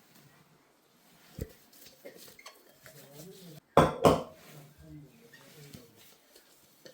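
Kitchenware being handled: a small knock, then two loud clattering clinks of dishes or utensils in quick succession about four seconds in.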